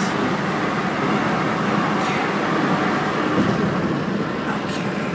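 Steady road noise inside a moving car's cabin: the rush of tyres on rain-wet pavement.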